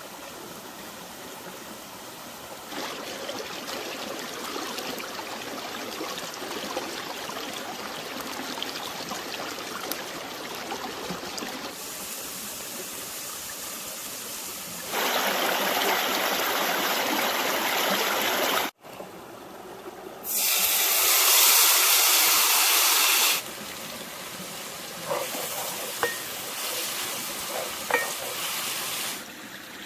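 A rushing, hissing noise like running water or sizzling, changing level abruptly several times and loudest for about three seconds in the middle. A few light knocks come near the end.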